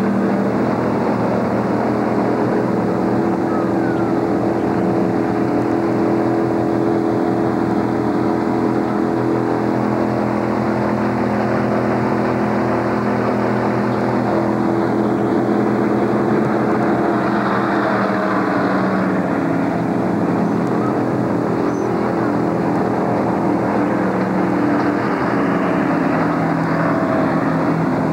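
Stock car V8 engine idling loudly and steadily, holding an even pitch throughout.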